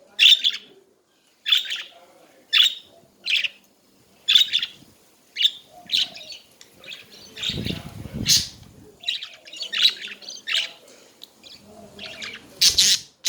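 Budgerigars chirping in a string of short, sharp calls, roughly one a second. There is a brief low rumble about eight seconds in.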